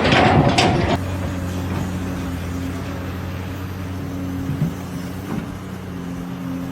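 An engine running steadily with a low, even hum. About the first second is louder, noisy clatter that stops abruptly.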